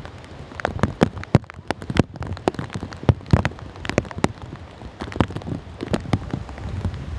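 Heavy typhoon rain: raindrops striking close to the microphone as irregular sharp taps, several a second, over a low steady rumble.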